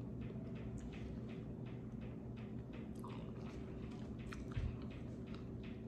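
A person chewing a mouthful of cheesy loaded baked potato: soft, irregular mouth clicks and smacks, fairly quiet.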